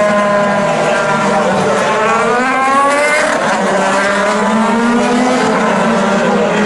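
Several IndyCar twin-turbo V6 engines running at low pace-lap revs as the field rolls by, their pitches overlapping; about two seconds in one engine's pitch rises steeply as it accelerates or passes close.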